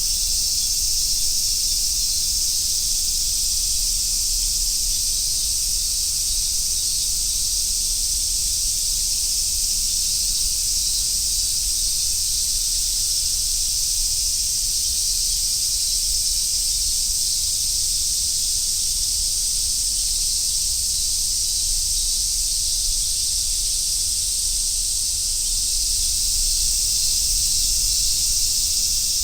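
Chorus of summer cicadas, among them large brown cicadas and robust cicadas, making a steady high-pitched sizzling drone that swells slightly near the end.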